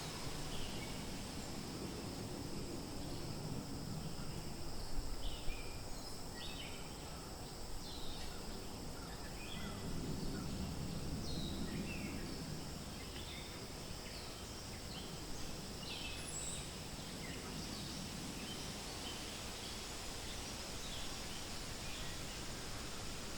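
Forest ambience: gentle wind rustling through leaves, swelling twice, with many short bird chirps scattered through the first two-thirds over a steady high hum.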